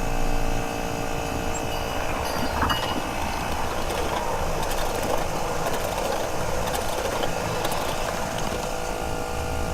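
A miniature ride-on train rolling past, its wheels giving a continuous clickety-clack rattle on the track. Over the first half a held chord of steady tones sounds along with it, fading out about five seconds in.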